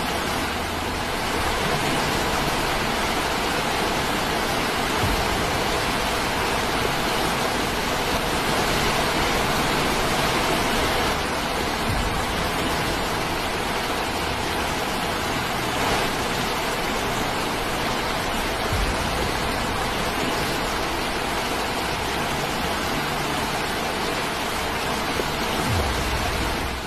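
Steady rushing of fast-flowing river water, an even unbroken noise with no pauses.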